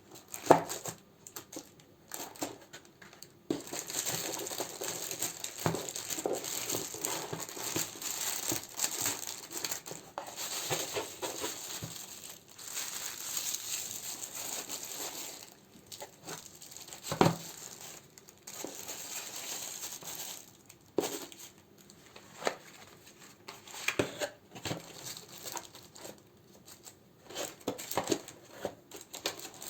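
Plastic wrappers and paper crinkling and rustling as candles are handled and sorted, with light knocks of candles set down, one sharp knock about half a second in.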